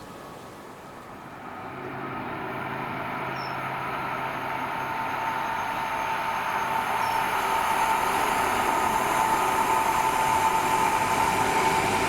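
A train approaching on the main line, getting steadily louder, with a steady high whine over the rising rumble.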